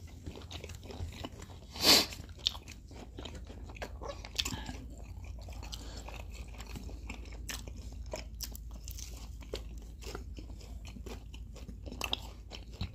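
Close-up eating sounds: chewing and crunching on crispy pan-fried green onion pancake, with many small wet mouth clicks and one louder crunchy bite about two seconds in.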